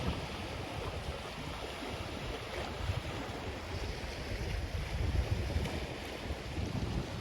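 Surf washing onto a black sand beach, a steady hiss of waves, with sea wind buffeting the microphone in low gusty rumbles.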